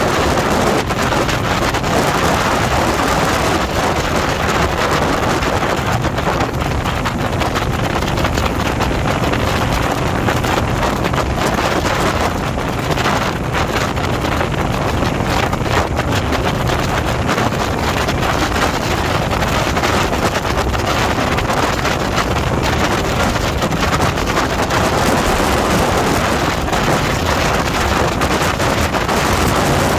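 Wind buffeting the microphone of a motorcycle-mounted camera at riding speed, over the steady drone of the motorcycle's engine and road noise.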